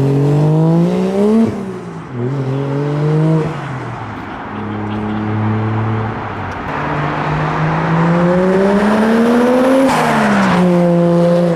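Car engine accelerating away through the gears: its pitch climbs, drops sharply at a gear change about a second and a half in, climbs again, holds steady for a few seconds, then climbs once more before another drop near the end.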